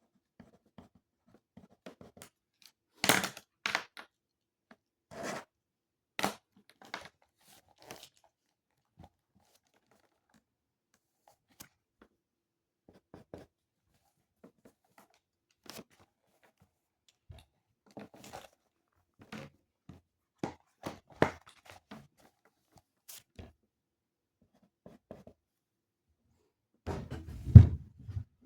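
Paper being handled at a desk, heard as short separate rustles and crinkles, with a louder knock and rustle near the end.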